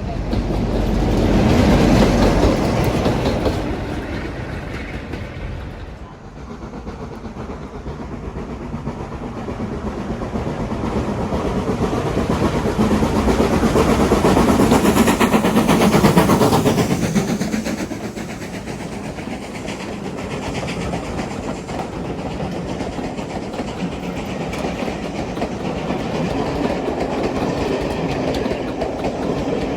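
Train running past on the line, wheels clattering over the rail joints. The sound swells loud soon after the start, drops off sharply about six seconds in, then builds to a second, louder peak around the middle before settling to a steadier run.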